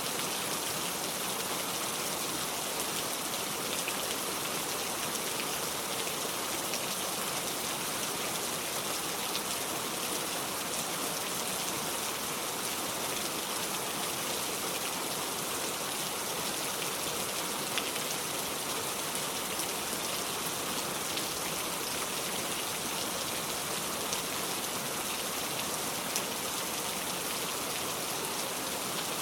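Steady heavy rain, an even hiss with individual drops ticking here and there.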